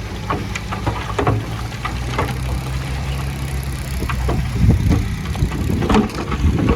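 Heavy machine's diesel engine running steadily, with repeated clanks and knocks of metal and rock over it; the knocks grow louder and closer together about four and a half seconds in.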